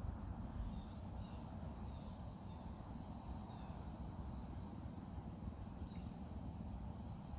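Outdoor ambience: a steady low rumble with a faint, steady high hiss, and a few faint short bird chirps scattered through.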